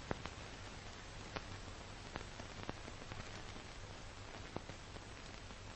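Steady hiss and low hum of an old film soundtrack, with scattered crackling clicks.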